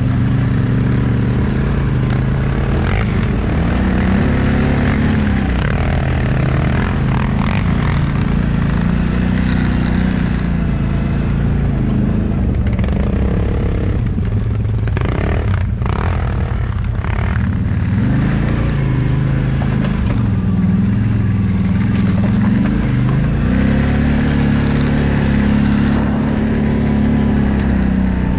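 Off-road vehicle engine running close up, revving and easing off again and again so its pitch rises and falls in waves, with a few sharp knocks about halfway through.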